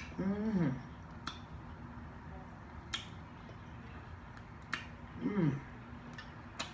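Close-up eating sounds of someone chewing crunchy breaded fried shrimp: sharp crunching or smacking clicks about every second and a half. Two short voiced hums, one just after the start and one about five seconds in, are the loudest sounds.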